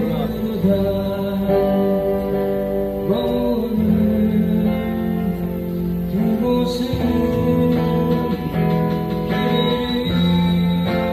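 Acoustic guitars strumming chords behind a singer who holds long sung notes, in a live street performance of a Korean folk song.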